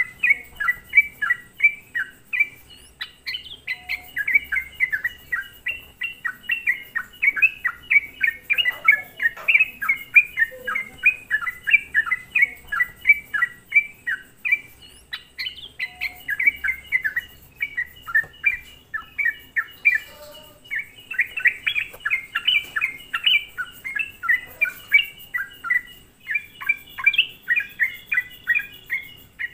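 Yellow-vented bulbul singing in full song: a continuous, rapid run of short chirping notes that slide downward, several each second, without a break.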